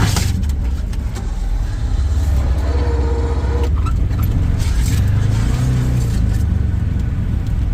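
A vehicle engine running steadily with a low rumble, heard with light rattling.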